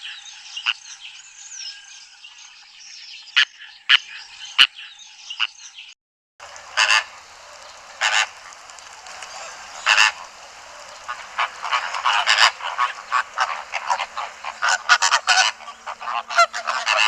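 Field recordings of wild bird calls, two clips in a row. The first, with sharp repeated calls over a background of birdsong, cuts off about six seconds in; after a brief silence a second recording starts, with loud harsh calls repeated at irregular intervals that come thicker toward the end.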